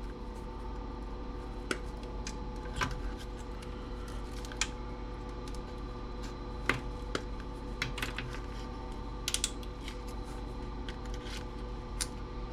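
Wire cutters snipping jumper wires on a circuit board: short sharp clicks at irregular intervals, with a quick cluster about nine seconds in, over a steady background hum.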